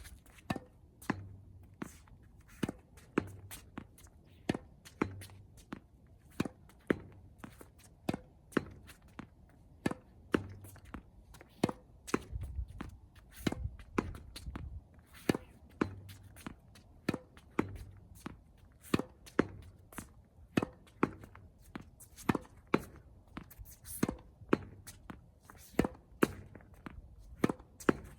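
Tennis balls being struck by a racket and bouncing on the court in steady practice, a sharp pop roughly every second, the strokes alternating louder and softer.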